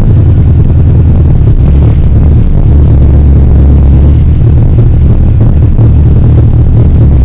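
Car engine running with a steady deep rumble, heard from inside the cabin as the car drives slowly.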